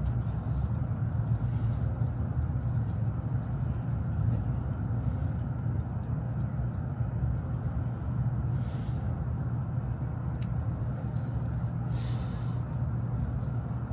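Shinkansen bullet train passenger cabin noise: a steady low rumble from the running train, with a few faint clicks.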